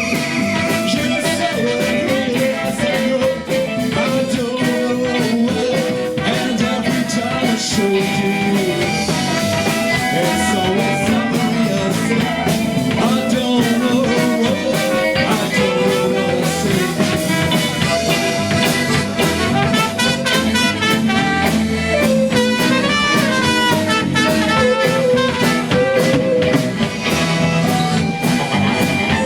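Live band playing an instrumental passage: a wavering melodic lead line over guitar, bass and drums.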